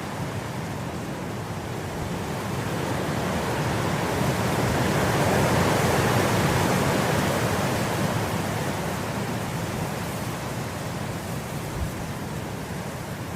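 Wind blowing through grass, a gust swelling over several seconds and then easing off again.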